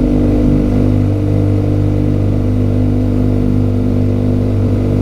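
Motorcycle engine running at a steady pitch while riding along at an even speed.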